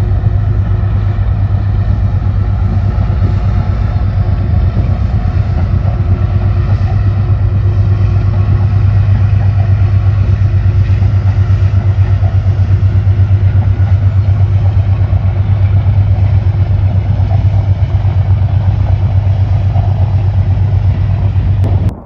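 Steady, loud engine rumble of a large vehicle, a strong low hum with faint higher tones that holds without rising or falling, then cuts off suddenly near the end.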